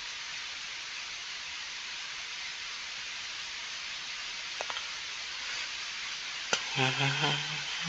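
Steady recording hiss, with a couple of faint clicks and, near the end, a short held voice sound like a hummed 'mm'.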